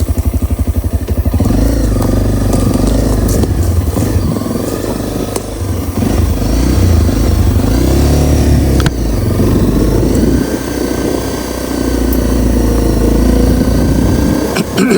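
Honda CRF250L's single-cylinder four-stroke engine ticking over in even pulses, then pulling away about a second and a half in and running under load, its revs rising and falling.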